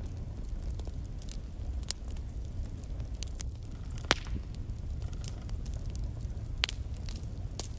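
Wood logs burning in a fireplace: a steady low rumble of the flames with irregular crackles and sharp pops, the loudest pops about four seconds in and again about six and a half seconds in.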